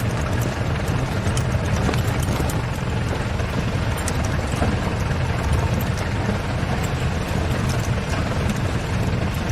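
Safari vehicle's engine running steadily, with light clicks and rattles throughout.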